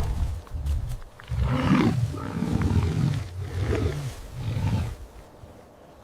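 A large wild animal roaring in a series of about four deep, grunting calls, each a little shorter and weaker than the last.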